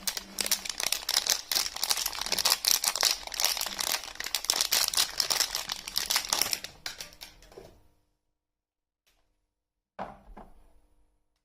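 Crinkling and tearing of soap packaging being unwrapped by hand, a dense crackle that fades out about eight seconds in, followed by a brief rustle near the end.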